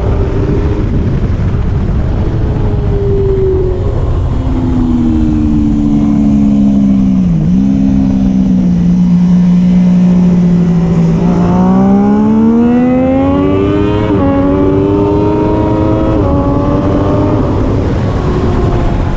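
Triumph Daytona 675R's three-cylinder engine at racing speed. The revs fall with a quick blip as the bike slows, stay low and steady for a few seconds through a slow corner, then climb again with two upshifts close together, over steady wind rush.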